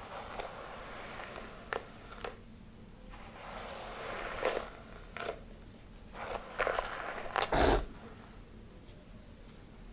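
Close-miked hair being brushed and rubbed: uneven scratchy swishing strokes with short crackles, the loudest stroke about seven and a half seconds in, with a soft thump.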